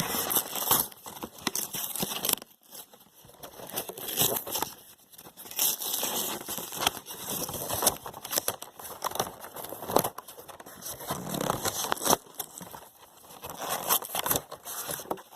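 A package being opened by hand: irregular bursts of crinkling and rustling packaging with tearing and small clicks, broken by short pauses.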